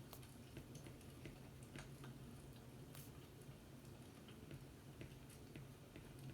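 Faint fireplace crackling: irregular small pops and ticks over a low steady rumble.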